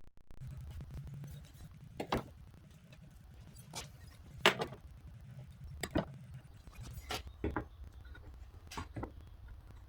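A series of about eight sharp knocks and clicks, irregularly spaced, over a low steady hum.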